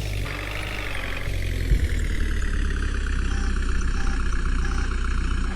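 Diesel engine of a JCB backhoe loader running steadily, its pitch wavering slightly in the first second, with one brief knock about a second and a half in.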